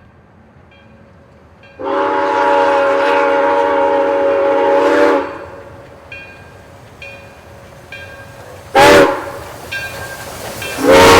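Steam locomotive's whistle sounding for the approach: a long chord blast of several notes at once, a short blast, then another long blast starting near the end, the pattern of a grade-crossing signal.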